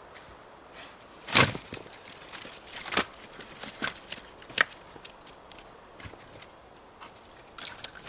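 Four sharp knocks at uneven intervals, the first, about a second and a half in, the loudest, with fainter ticks and rustles between.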